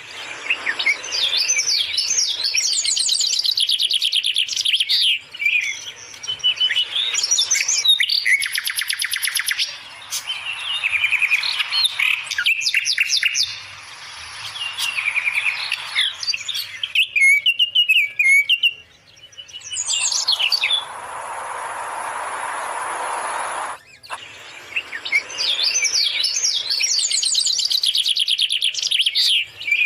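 Pet budgerigars chirping and chattering, many quick high warbling calls overlapping. About two-thirds of the way through the chirping drops out for a few seconds of steady hissing noise.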